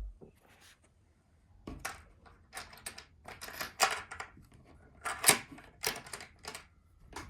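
An irregular run of light clicks and taps from small hard objects being handled, starting about two seconds in and continuing to the end, with a few sharper knocks along the way.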